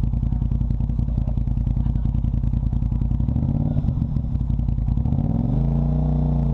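Off-road vehicle engine running at a steady low speed, then throttled up and down from about halfway through, its pitch rising and falling.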